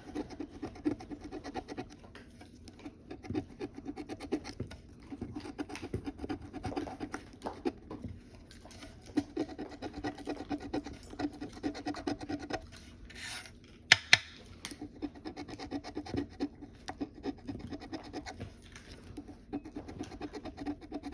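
A scratch-off lottery ticket being scratched off in quick, repeated rasping strokes, with short pauses between runs and one sharp tap about two-thirds of the way through.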